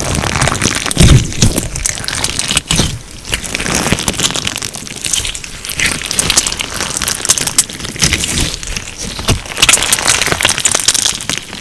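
Crunchy slime filled with sugar beads being squeezed and kneaded by hand, the beads crackling and crunching densely and continuously.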